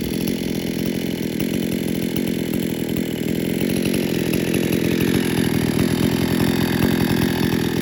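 Two-stroke chainsaw engine running steadily, its high-speed (H) jet turned out slightly rich to keep the engine cool while keeping plenty of power.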